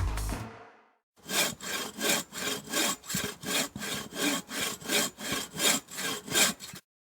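Background music fades out, then rhythmic back-and-forth scraping strokes, about two to three a second, stop abruptly near the end.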